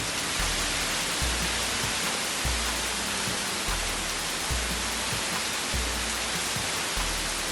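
Heavy rain falling as a steady hiss, under background music with a low bass pulse repeating about once a second.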